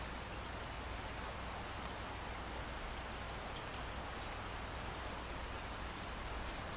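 Steady rainfall: an even hiss of rain with a steady low rumble underneath, no single drops or other events standing out.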